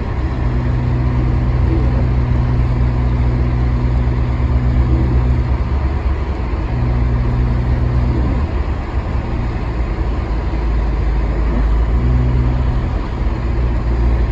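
Vehicle engine drone and tyre rumble heard from inside the cabin while driving on a snow-covered road, a steady low hum whose note drops out and comes back a few times.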